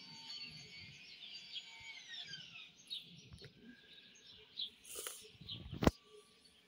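Small birds chirping and twittering, many short quick notes. A sharp click sounds just before the end, louder than the birdsong.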